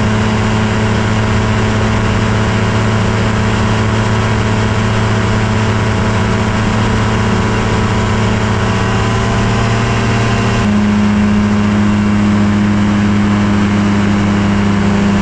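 Kolb Firefly ultralight airplane's engine running steadily as a loud, constant drone. About ten and a half seconds in, the pitch shifts abruptly by a small step, then holds steady again.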